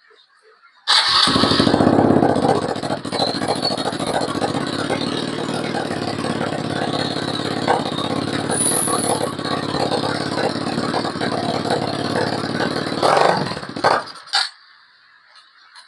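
Kawasaki KLX dirt bike's single-cylinder engine, fitted with an aftermarket Nurifumi exhaust, catching about a second in. It runs steadily for about thirteen seconds, then cuts off abruptly, with one short burst just after.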